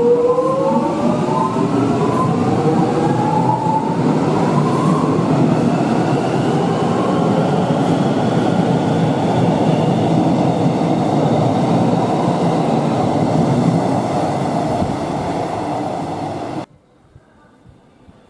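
Electric suburban train accelerating out of an underground platform: a rising whine from its traction motors over the first few seconds, then a steady rumble of wheels on rails as the carriages go by, echoing in the station. The sound cuts off suddenly near the end.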